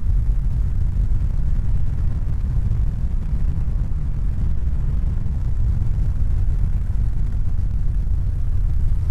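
Steady, dense low rumbling noise, heavy in the bass, with no clear pitch or rhythm.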